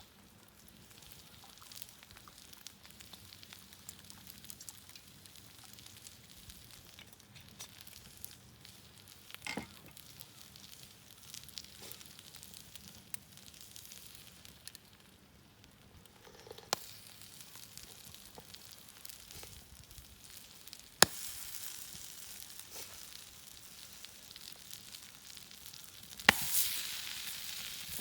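Food sizzling over a campfire, with a few sharp clicks. The sizzle gets louder after a click about two-thirds of the way in, and again after another near the end.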